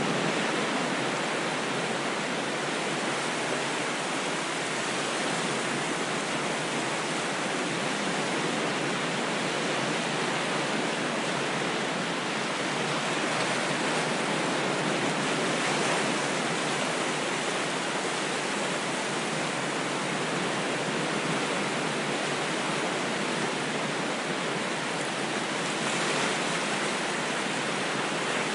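Ocean waves: a steady, even rush of surf with little rise and fall in loudness.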